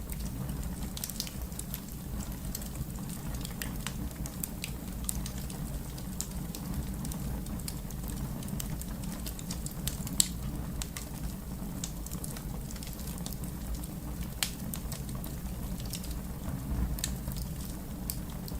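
Wood fire crackling steadily, with scattered small pops and snaps over a low rumble. Two sharper pops come about ten seconds in and again about four seconds later.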